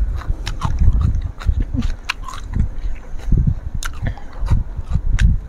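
Close-up eating sounds: chewing with many sharp mouth clicks and crackles, over an irregular low rumble of wind buffeting the microphone.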